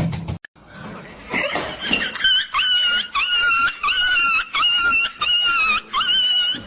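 An animal's repeated high-pitched squeals: about eight short calls of steady pitch, evenly spaced at roughly two a second, starting about two seconds in.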